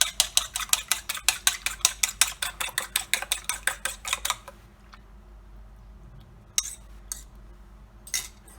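A fork beating an egg in a bowl: fast, even clinks, about six a second, that stop about four and a half seconds in. A few scattered clinks and scrapes follow near the end.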